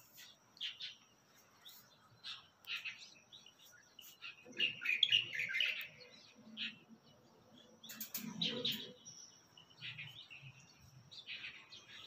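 A flock of birds chirping and twittering in many short, scattered calls, busiest around the middle and again after about eight seconds.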